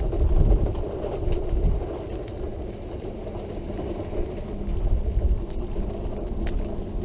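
Wheelchair rolling along a hard-surfaced path: a steady rumble of wheels and drive, with irregular low rumbling bursts, strongest near the start and again about five seconds in.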